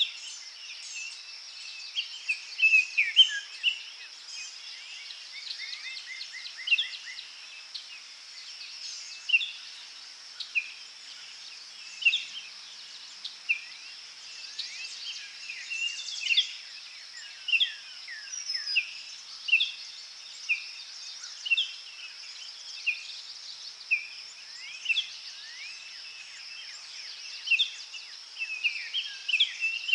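Forest birds chirping and singing in short calls every second or two, with a quick trill about six seconds in. Under them runs a steady high insect drone.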